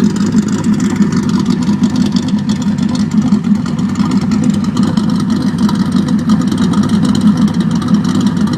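Car engine with Crower cams idling steadily through Dynatech long-tube headers, catted mid pipes and a Magnaflow cat-back exhaust.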